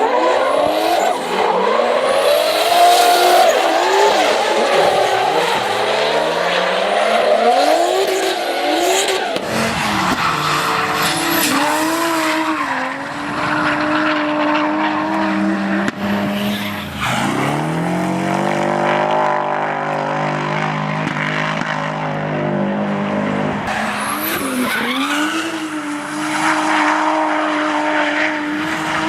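Toyota Supra Mk4's 2JZ inline-six revving hard through a drift, its pitch swinging up and down quickly for the first several seconds, then held high with a few sharp drops and climbs back, over tyres screeching on the asphalt.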